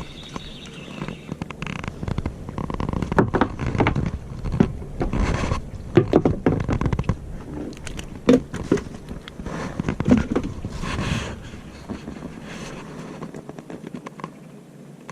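Irregular scraping, rustling and knocking close to the microphone, like gear or a catch being handled, busiest through the middle and dying down near the end.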